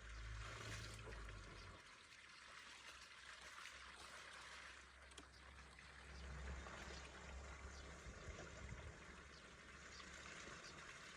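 Faint water running and trickling through a culvert, steady throughout, with a low rumble underneath.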